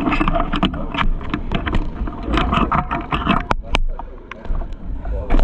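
Small petrol engine running raggedly with irregular knocks and rattles, dipping briefly about two thirds of the way through. Its carburettor slide has fallen out, so it runs with no throttle control.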